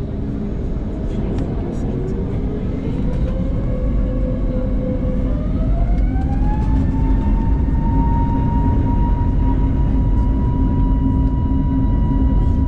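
Airbus A320's jet engines spooling up to takeoff thrust: a whine that rises in pitch over about five seconds and then holds steady, over a heavy rumble.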